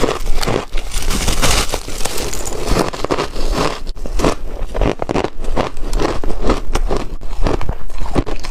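Chunky ice being bitten and crunched close to the microphone: a dense, continuous run of sharp crackling crunches.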